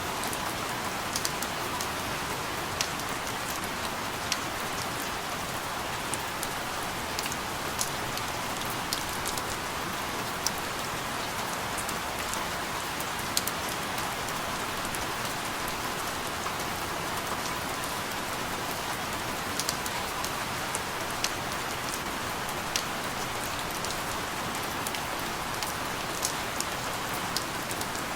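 Steady rain: an even hiss, with scattered sharper drops ticking on a surface at irregular moments.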